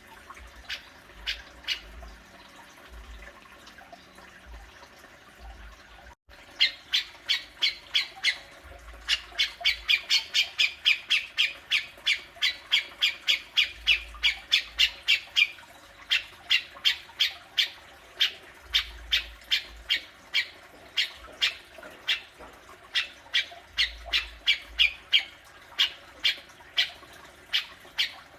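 Grey-cheeked bulbul (cucak jenggot) giving its harsh, chattering 'besetan' call. After a few isolated notes and a short break, it becomes a long run of short, sharp, high notes, fastest (about four a second) in the middle stretch, then a little slower.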